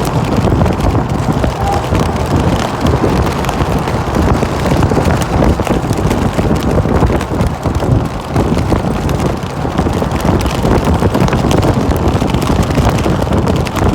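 Steady, loud noise of wind on the microphone mixed with vehicle traffic.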